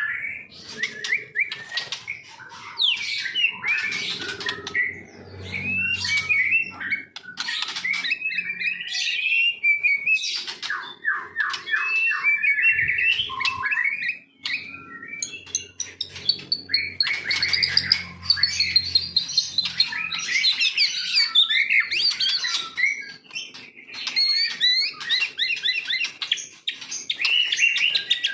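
A white-rumped shama singing a long, varied song of whistles, fast trills and sharp clicks, with only short pauses.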